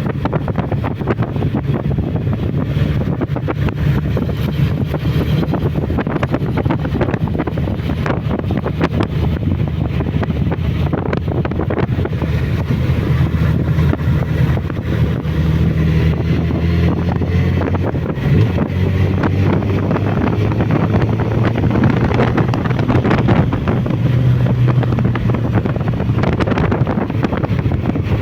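Suzuki Bandit motorcycle's inline-four engine running as it rides, its note shifting in pitch a few times, under heavy wind rush on the microphone.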